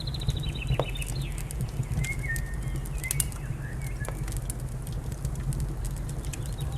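A wood fire crackling with frequent sharp pops over a steady low rumble, with a small bird singing: a quick falling trill at the start and a few chirps about two to three seconds in.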